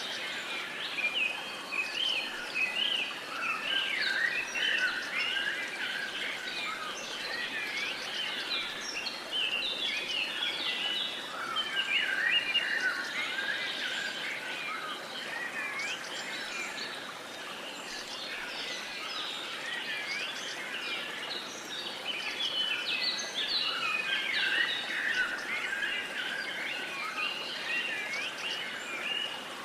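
A chorus of many small birds chirping and singing at once, overlapping calls throughout, over a steady background hiss.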